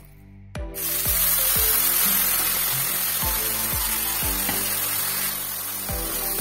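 Background music with a steady drum beat, over food sizzling in oil in a pan; the sizzle comes in suddenly after a brief drop about a second in.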